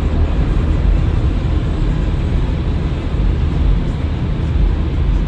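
Automatic car wash drying and buffing machinery running, heard from inside the car: a steady, loud noise with a low rumble underneath.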